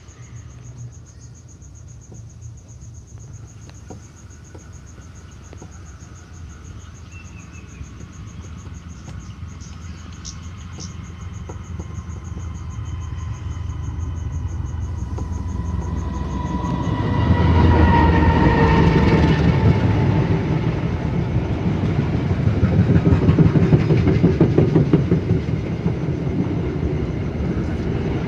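Diesel locomotive-hauled passenger train approaching and passing: a low rumble grows steadily louder. After about seventeen seconds the locomotive goes by with its engine tones falling slightly in pitch. Then the carriages roll past with a loud, rapid clickety-clack of wheels over rail joints.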